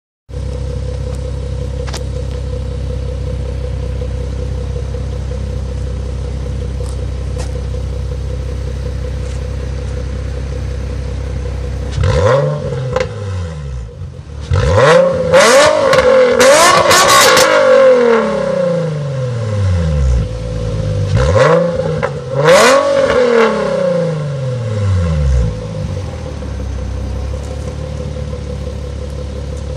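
2008 Nissan 350Z's V6 breathing through a Flowmaster muffler taken off a Camaro, with the resonator deleted: idling steadily, then revved in a series of quick blips in the middle, each rising and falling back, before settling to idle again near the end.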